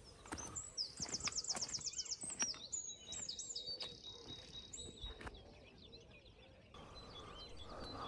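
Small birds singing and chirping, with a fast trill of about ten quick repeated high notes about a second in.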